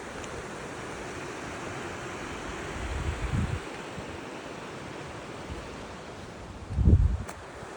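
Steady rushing wind noise, with two low rumbling gusts buffeting the microphone: one about three seconds in and a stronger one near the end.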